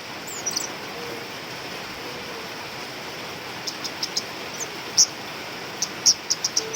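Female forest flowerpecker (cabai rimba, kemade) giving short, sharp, high-pitched chip calls, scattered at first and coming faster and louder in the second half, over a steady hiss.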